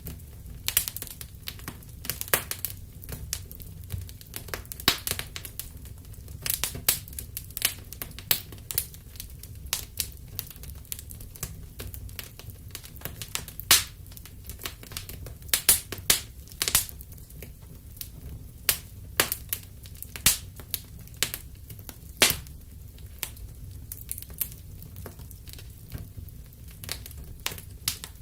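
Wood fire burning in a fireplace: irregular sharp crackles and pops, some loud, over a steady low rumble of the flames.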